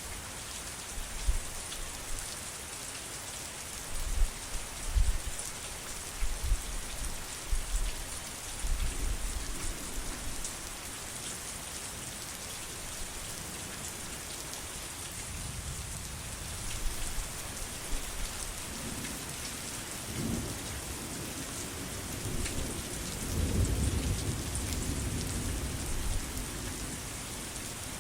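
Steady heavy rain hissing, with low thunder rumbling through it several times. The longest and loudest roll comes about three quarters of the way through.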